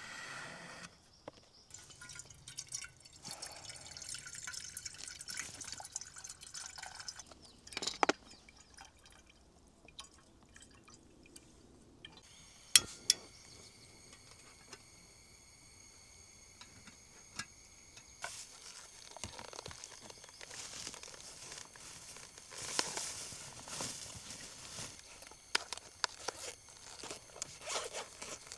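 Liquid pouring and dripping, with a couple of sharp knocks, one about eight seconds in and a louder one near the middle.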